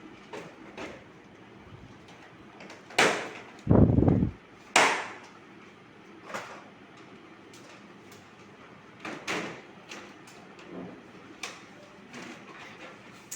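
Plastic clacks and knocks as the cover of an indoor air-conditioner unit is unclipped and taken off, with a heavy thump about four seconds in and lighter knocks after.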